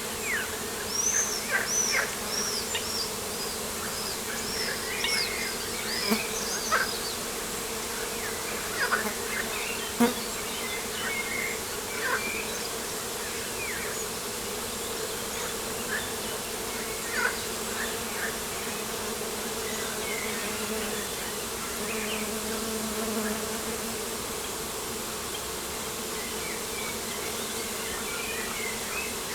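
Insects buzzing with a steady hum, while birds chirp and sing over it: a quick series of high whistled notes in the first few seconds and scattered short calls after, thinning out in the second half.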